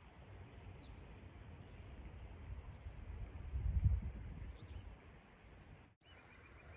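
Birds calling with short, high chirps that slide downward, spaced a second or two apart, over a steady outdoor hiss. A low rumble swells and fades near the middle, and a short rapid trill comes just before the end.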